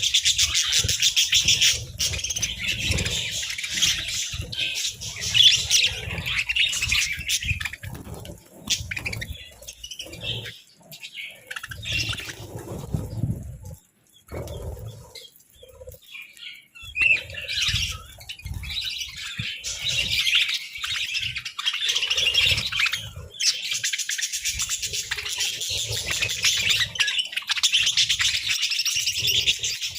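A group of budgerigars chattering and warbling in a dense, continuous twitter. It thins to scattered chirps for several seconds in the middle, then builds back up to full chatter.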